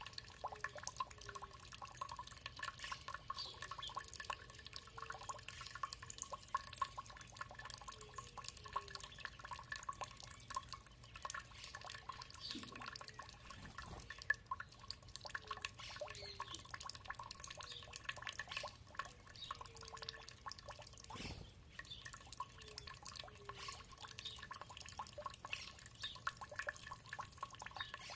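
Water trickling and dripping: a dense, continuous patter of small drips.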